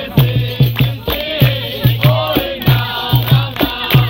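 Capoeira roda music: a low hand-drum beat about twice a second under rattling hand percussion, with voices singing over it.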